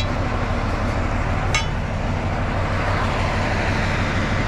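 Diesel engine of a TU7A narrow-gauge locomotive idling steadily, with a single sharp click about a second and a half in.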